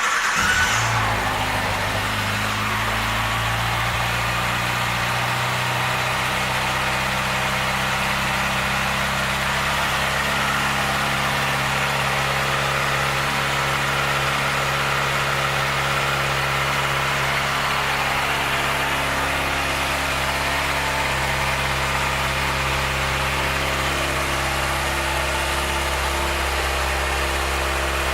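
2012 Kawasaki ZX-6R Ninja's 599 cc inline-four starting at the outset, flaring briefly, then idling steadily.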